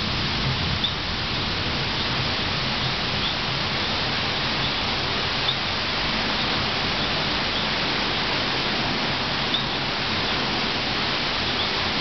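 Steady rain hiss during a thunderstorm, with faint short high chirps now and then.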